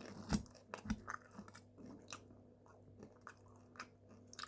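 A person chewing a mouthful of food close to the microphone, with scattered small crunchy clicks and wet mouth sounds.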